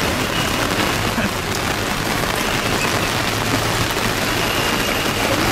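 Rain falling steadily on a wet street, an even, dense hiss.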